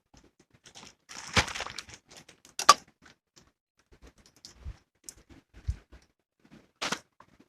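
Campfire of scrap building timber: scattered cracks, knocks and rustling, with a sharp crack about a third of the way in and another near the end.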